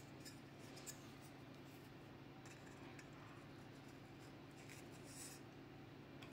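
Near silence: room tone with a faint steady low hum and a few faint ticks and rubs of small parts being handled.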